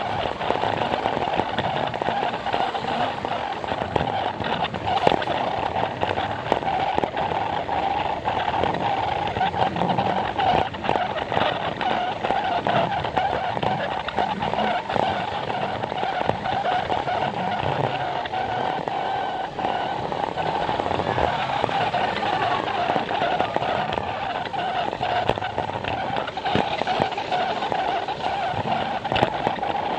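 Plarail toy train's small battery motor and gears running steadily with a constant whine, its wheels clicking over the plastic track.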